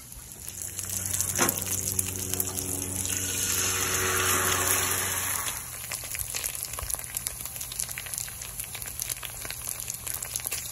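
Bánh xèo batter frying in oil in a skillet, with dense crackling and sizzling throughout. A steady low hum runs under it and stops about five and a half seconds in, and there is one sharp click about a second and a half in.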